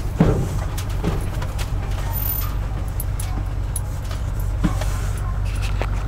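Vehicle engine running with a steady low rumble, with a few light clicks over it.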